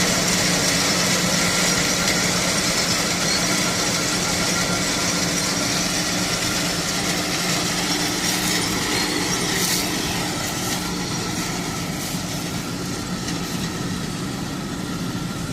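Bean, peanut and corn harvesting machine running steadily: a constant mechanical drone with a steady low hum. A few clicks come about two-thirds of the way through, and it grows a little quieter near the end.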